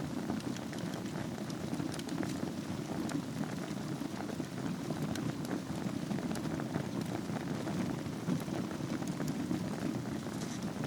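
Wood fire burning in a fireplace over glowing embers: a steady low rush with many small scattered crackles and pops.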